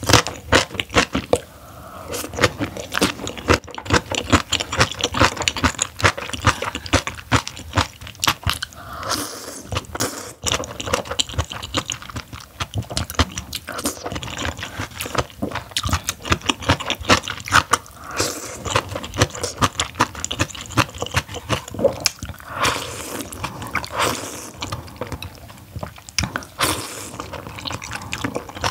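Close-miked eating sounds from a mouthful of seaweed-and-oyster knife-cut noodle soup and cabbage kimchi: steady wet chewing with crunches and squishing, many small clicks in quick succession.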